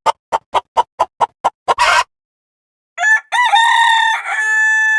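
A rooster crowing, beginning about three seconds in: one long crow that ends on a held note. Before it, a fast beat of about four pulses a second cuts off after a brief burst of noise, followed by a second of silence.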